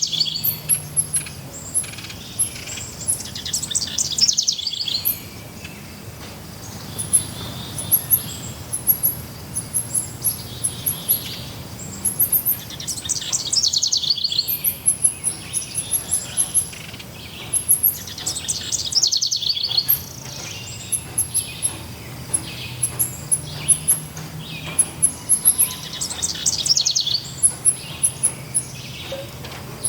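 Forest birds singing: a steady run of very short, very high chirps, with a falling trilled phrase from another bird recurring every several seconds.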